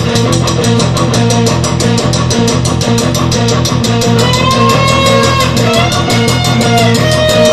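Instrumental intro of a rock song: a fast, steady drum beat under bass and guitar, with a lead guitar line bending in from about four seconds in.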